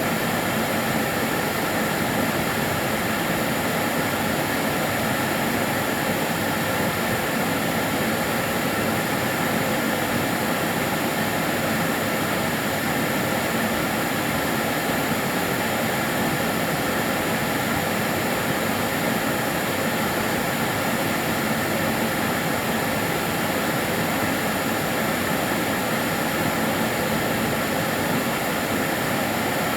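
Karcher DS 6 Premium water-filter vacuum cleaner running steadily, its motor and airflow giving an even, unbroken whoosh with a faint steady whine.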